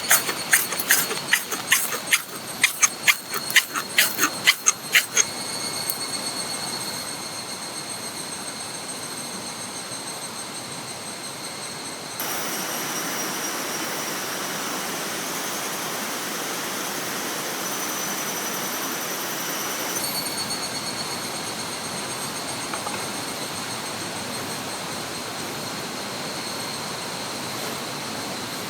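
Steady rushing of a river with high, steady insect calls over it, starting with a quick run of sharp knocks that stop about five seconds in. The pitch of the insect calls changes abruptly twice.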